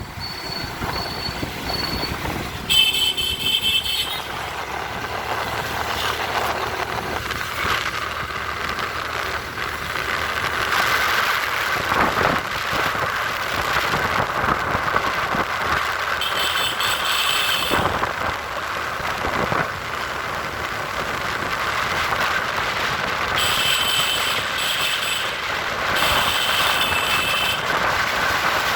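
Road traffic on wet roads: continuous engine and tyre noise, with vehicle horns sounding in short blasts four times.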